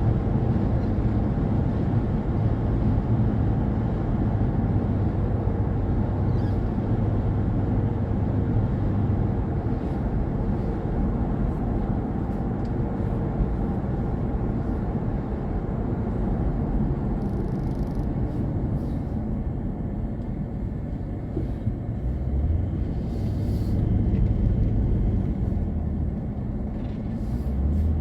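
A car driving on a highway in strong wind: a steady low rumble of road, engine and wind noise.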